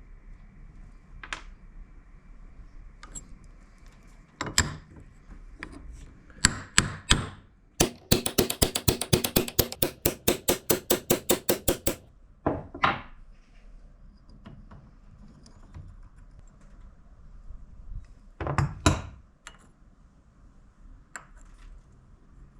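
Hammer blows in a workshop. A few scattered knocks come first, then a quick steady run of about twenty taps, roughly five a second, lasting about four seconds. A few more single knocks follow.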